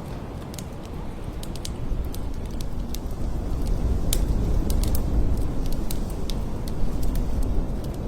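Blizzard wind blowing in a deep, steady rumble that swells and eases in gusts, with scattered sharp crackles and ticks over it.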